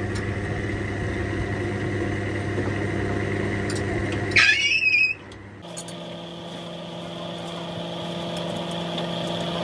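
An engine running steadily, then a short, loud squeal with a bending pitch about four and a half seconds in. The sound then drops abruptly and a different steady machine hum takes over and slowly grows louder.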